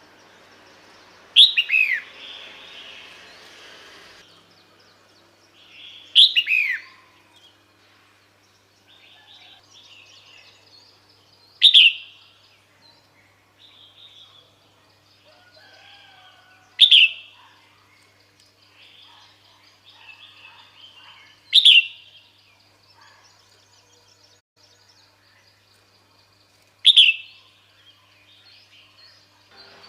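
Female red-whiskered bulbul calling: a short, sharp note sweeping steeply down in pitch, repeated six times about every five seconds, with faint softer chirps in between. This is the female's call used to draw males.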